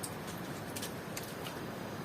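Steady rain hiss with about five sharp, irregular drop ticks.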